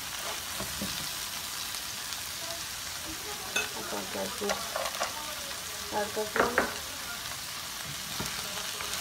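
Peas, onion and paneer sizzling in a hot wok with a steady hiss, stirred, with scrapes and knocks against the pan in two short clusters, the louder one a little past the middle.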